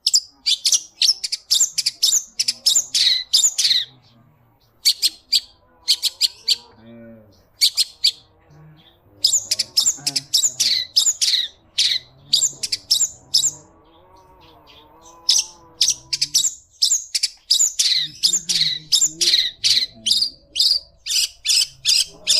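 Long-tailed shrike (cendet) singing loudly in rapid runs of sharp, high chattering notes, broken by short pauses, its song filled with mimicked yellow-vented bulbul (trucuk) phrases.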